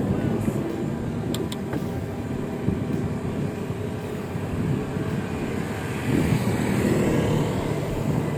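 Road and traffic noise recorded while riding an e-bike, a steady low rumble with a vehicle swelling past near the end. Two short sharp clicks come about a second and a half in.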